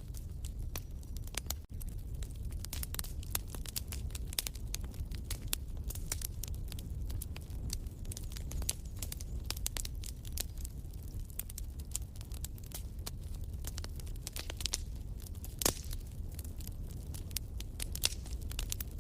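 Wood fire crackling in a fireplace: irregular sharp snaps and pops over a low steady rumble of the flames, with one louder pop about three-quarters of the way through.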